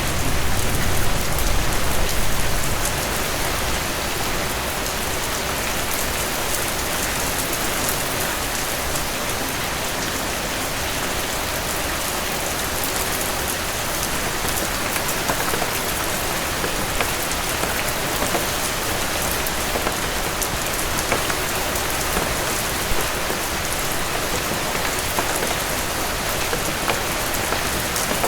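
Heavy rain falling steadily on a cabin porch, an even hiss of drops with occasional sharper ticks. A low rumble sits under the rain for the first two seconds or so, then fades.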